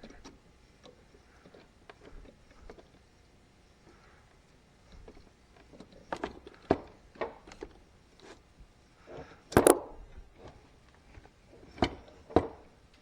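Scattered clicks and knocks of metal tools and parts being handled at a workbench, with a brief louder clatter about three-quarters of the way through and two sharp knocks near the end.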